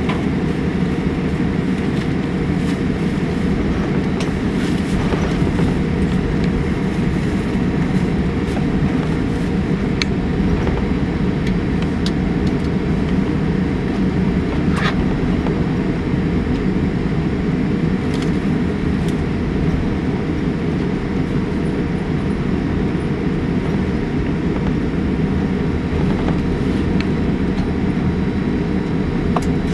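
Cabin noise inside a Boeing 787-8 taxiing after landing: a steady low rumble from the idling engines and the rolling airliner, with a few faint clicks.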